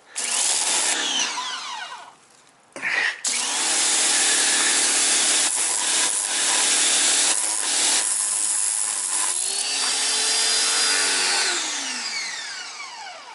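Handheld power tool running against metal to clean oxidation off a trolling motor's magnet housing: a short run, a pause, then a long run of about nine seconds. It whines down in pitch as it stops near the end.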